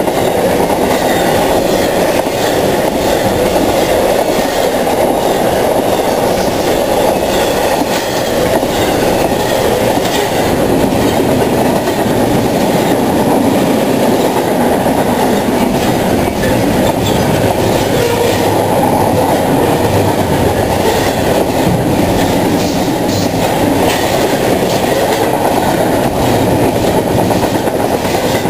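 Double-stack intermodal freight cars rolling past: a steady, loud rumble of steel wheels on the rails, with repeated clicks as the wheels cross the track.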